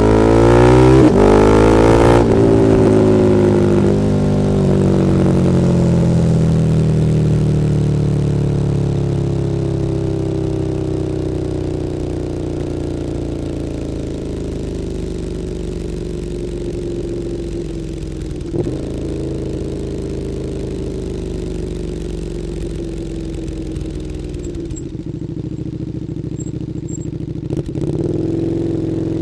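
KTM 1290 Super Duke R's V-twin through an Akrapovič Evolution Line exhaust. It revs up hard over the first two seconds, then the revs fall slowly and steadily for most of the rest. There is one brief blip about two-thirds through, and the revs pick up slightly again near the end.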